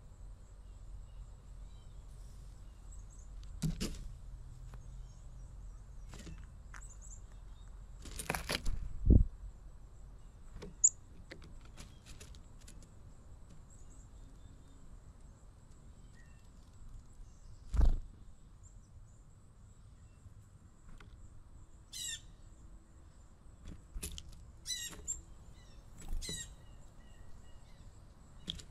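Wild birds at a feeder: a few sharp thumps and knocks, the loudest about a third of the way in and again past halfway, then several short, high, quavering bird calls near the end, over a low rumble.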